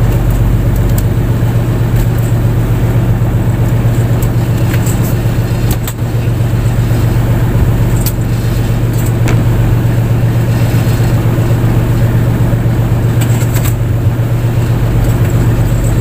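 Fishing boat's engine running steadily at constant speed, a loud, deep, even drone.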